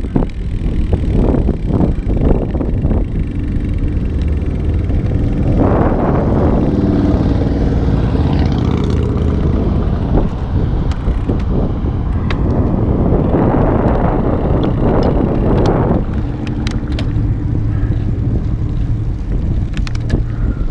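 Wind buffeting the microphone of a moving road bicycle ridden into a headwind: a steady low rumble, with two stretches of louder rushing noise, one starting about five seconds in and one about thirteen seconds in, and a few sharp ticks near the end.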